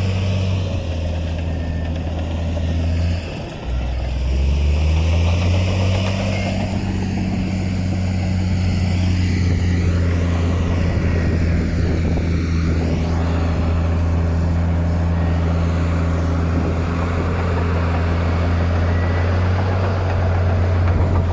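Heavy construction machine's diesel engine running steadily under load. About three seconds in, the sound dips briefly, then rises in pitch and holds there.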